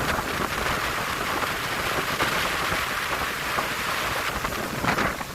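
Steady rushing noise of strong wind, rain and high-tide surf.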